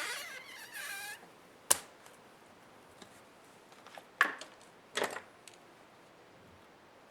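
Parts of an HP ProBook 430 G6 laptop being worked on during disassembly: a wavering squeak for about the first second, then three sharp clicks spread over the next few seconds.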